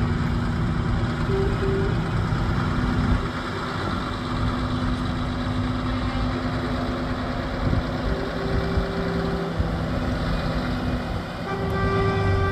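Truck air horns sounding in long held tones, at times two at once, over the running engines of trucks. A fuller, multi-tone horn blast starts near the end.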